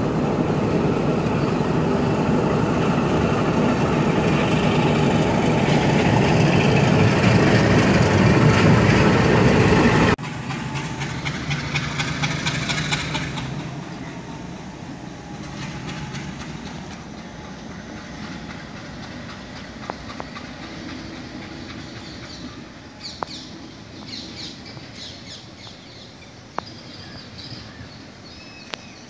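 Sri Lanka Railways Class M10 diesel locomotive running at speed, heard from its side railing: a loud, steady rush of engine, wheels and wind that cuts off abruptly about ten seconds in. The locomotive is then heard from trackside as it pulls its train away, fading steadily, with a few sharp clicks near the end.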